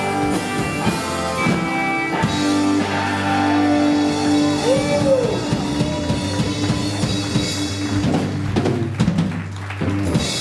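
Live rock band playing: drum kit and electric guitar, with a long held note from about two seconds in and guitar pitch bends near the middle.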